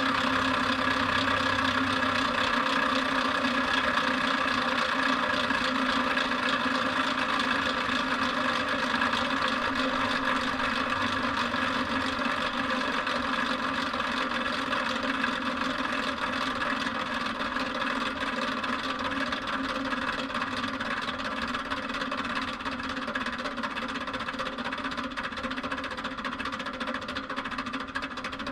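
Idler motor of an American Rotary rotary phase converter spinning down, running on steadily while slowly getting quieter, with a clicking in it. The clicking was put down by the maker's support to bearings needing grease, or possibly worn bearings.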